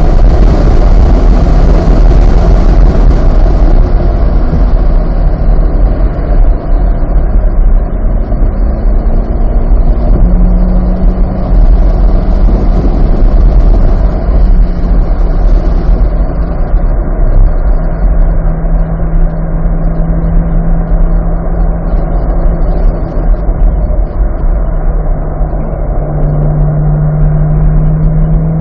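Corvette C8's 6.2-litre LT2 V8 heard from inside the car, running at a fairly steady, moderate engine speed under a heavy deep rumble of road and wind noise. A high hiss fades over the first few seconds.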